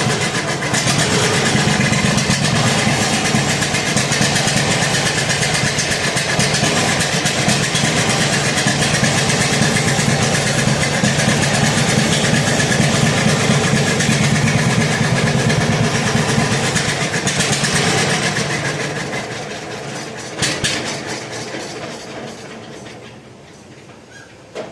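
Old carbureted gasoline engine running steadily on full choke, a sign that the carburetor needs rebuilding. Near the end it fades away, with a brief knock partway through the fade.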